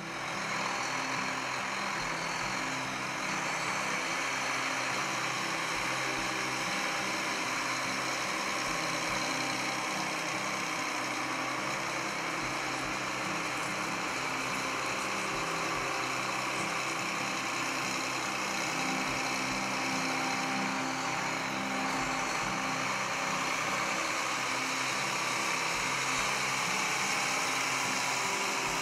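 New Holland T9050 four-wheel-drive tractor's diesel engine running steadily at an even speed.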